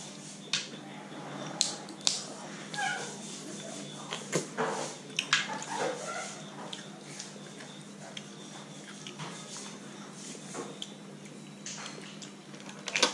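Close-up eating sounds: a person chewing cooked Dungeness crab meat, with scattered sharp clicks and wet mouth noises and a few brief high squeaks in the first half. A steady low hum runs underneath.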